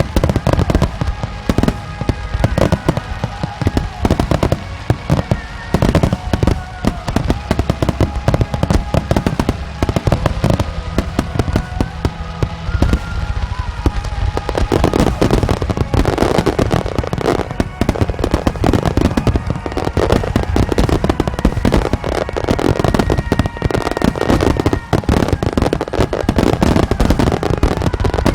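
Aerial fireworks shells bursting in a rapid, dense barrage, with music playing alongside. About halfway through, the bursts thicken into a near-continuous crackle.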